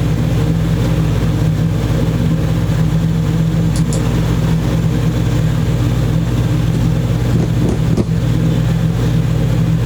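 A steady mechanical hum with a low, unchanging drone, with a faint click about eight seconds in.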